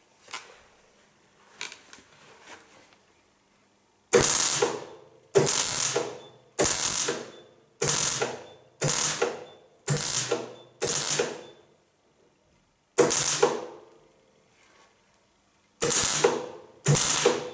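MIG welder laying short tack welds on a steel bonnet repair panel: about ten separate bursts of crackling arc, each under a second long, with a pause near the middle, after a few faint clicks at the start.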